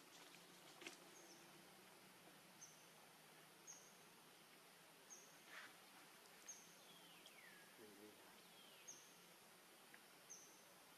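Faint outdoor ambience with a bird repeating a short, high, downward chirp about once every second or so. Two longer falling whistles come about seven and nine seconds in.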